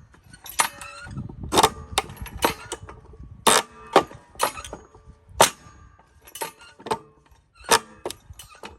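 Repeated sharp metallic strikes on a wood-splitting tool as firewood is split: more than a dozen irregularly spaced blows, some with a short metallic ring after them. Loud enough that it is called too loud.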